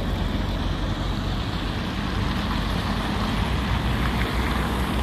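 Road traffic passing: a heavy truck's low engine rumble with tyre noise, swelling slightly in the second half.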